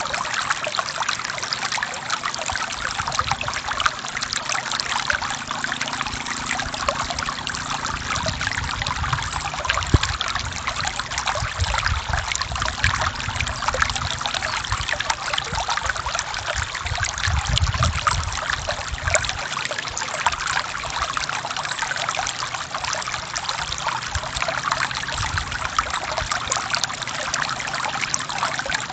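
Forest stream flowing and trickling over rocks, a steady bright splashing with a low rumble beneath it for part of the time and a single small click about ten seconds in.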